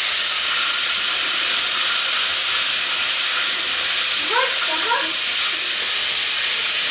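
Chicken pieces frying in hot oil: a steady sizzle. A voice calls out briefly about four seconds in.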